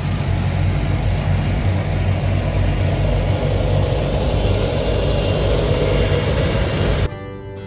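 Steady car noise, engine and road rumble, as heard riding in a moving car. It cuts off abruptly near the end.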